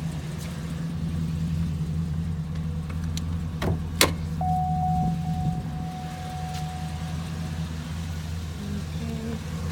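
Cadillac Escalade ESV's 6.2-litre V8 idling steadily. Two sharp clicks come a little under four seconds in, followed by a faint steady tone lasting about three seconds.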